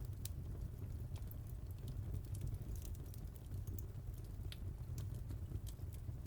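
Wood fire crackling: irregular small sharp pops and snaps over a steady low rumble of the burning fire.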